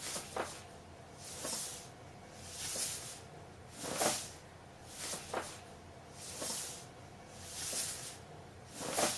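A pet's noisy, hissy breathing, one breath about every second and a quarter.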